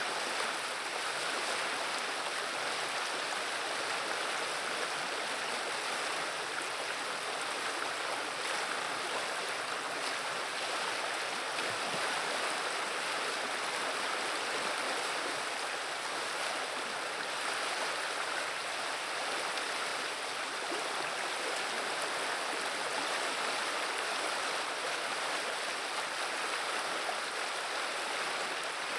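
River water running and babbling steadily, a constant, even rush without breaks.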